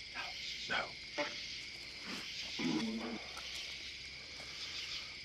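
Steady high-pitched chorus of night insects chirring outdoors, with a few faint brief knocks and a short low murmur a little under three seconds in.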